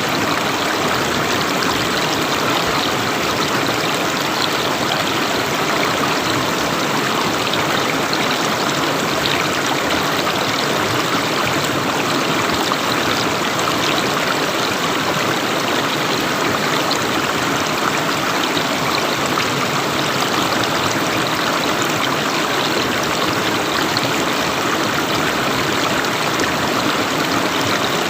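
River water flowing steadily, an even rushing sound that does not change.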